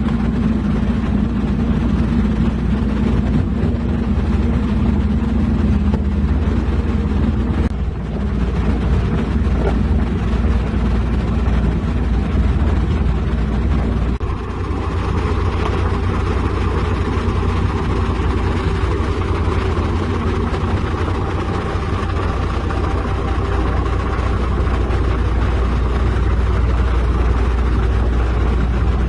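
Heavy diesel engine of construction machinery running steadily, its note changing about eight seconds in and again about fourteen seconds in.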